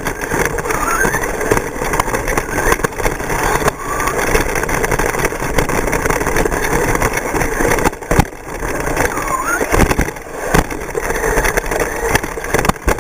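Radio-controlled short course trucks running on a track, their motors whining up in pitch again and again over a busy noise, with a few sharp knocks.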